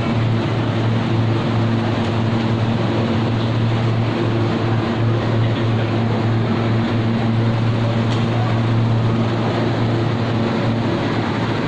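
Refrigeration machinery of a sub-zero ice hall running steadily: a constant low drone with a few steady tones over an even rush of blown air.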